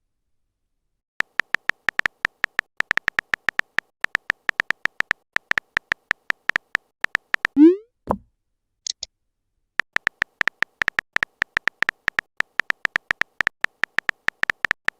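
Chat-app text-typing sound effect: rapid short same-pitched beeping clicks as the letters appear, in two long runs, with a short rising pop between them, like a message being sent.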